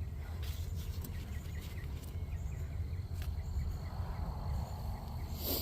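Outdoor garden ambience: a steady low rumble under faint, quickly repeated chirps, with a brief sharp rustle near the end.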